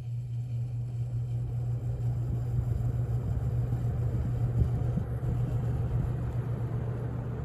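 Holmes HABF-20 box fan starting up on low speed: a steady motor hum, with the rush of air building over the first few seconds as the blades come up to speed.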